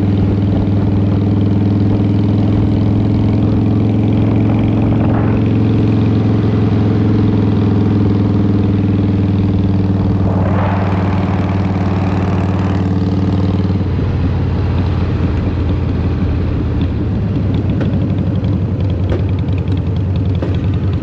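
2003 Harley-Davidson Fat Boy's Twin Cam 88 V-twin running steadily through Vance & Hines exhaust. About fourteen seconds in its tone drops as the engine eases off, and a brief rushing noise rises over it a little before that.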